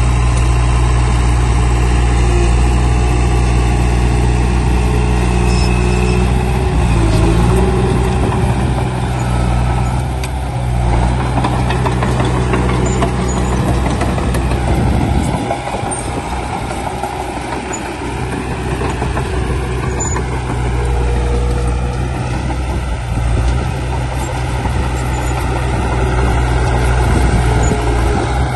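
Heavy diesel engine of construction machinery running with a steady low note. About a third of the way in it turns rougher and noisier for several seconds, then settles back to the steady note.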